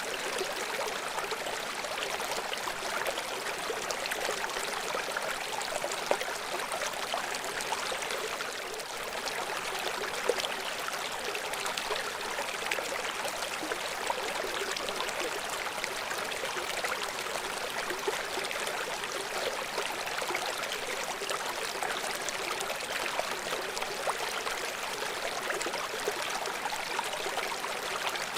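River water flowing in a steady, even rush, with a couple of brief louder moments.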